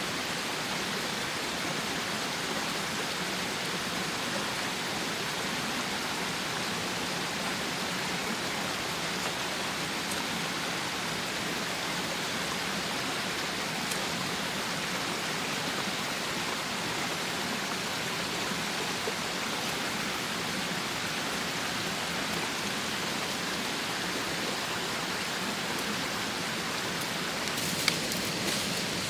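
Steady, even rushing hiss of water, with a single sharp click near the end.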